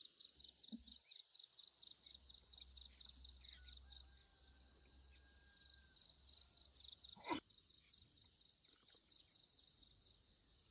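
Insects calling in a fast, even pulsing rhythm, high-pitched, about eight pulses a second. About seven seconds in a click cuts it off, and a fainter, higher insect chorus carries on.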